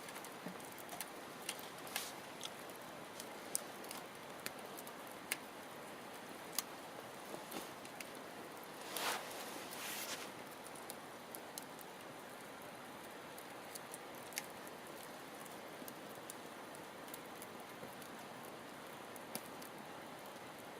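Wood campfire crackling over a low steady hiss, with irregular sharp pops and a longer hissing flare-up about nine seconds in.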